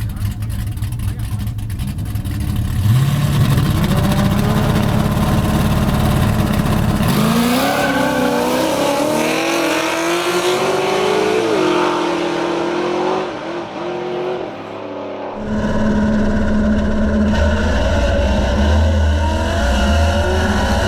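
Race car engines running with a low rumble, one revving up about three seconds in. From about seven seconds an engine accelerates hard, its pitch climbing and stepping as it pulls away. A sudden change near fifteen seconds brings back a loud low engine rumble.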